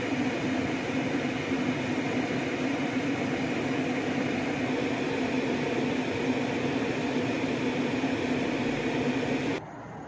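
Freight train of boxcars rolling past, heard from inside a car over a steady low hum. Near the end the sound drops suddenly to a quieter, thinner rumble.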